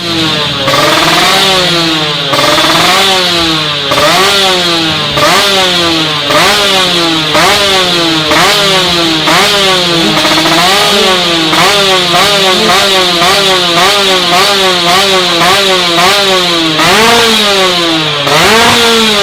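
Kawasaki Ninja R two-stroke motorcycle engine revved over and over through an aftermarket drag exhaust, its pitch climbing and dropping about once a second with a raspy tone.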